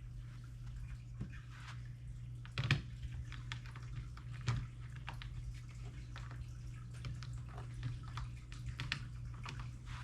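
Fish tank running: a steady hum from its pump and filter, with water trickling and dripping, and a few scattered drips or clicks.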